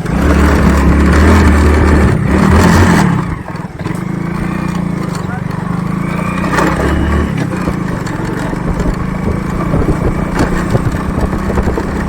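Motorcycle engine running steadily while riding, with a low hum that eases slightly about three and a half seconds in.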